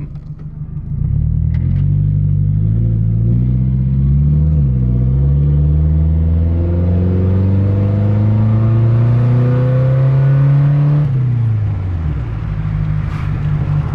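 Nissan 240SX's 2.4-litre four-cylinder engine pulling hard through its muffler-deleted exhaust, catalytic converter still on. The pitch climbs steadily for about ten seconds, with a brief dip about four seconds in, then drops away near the end as the throttle is released.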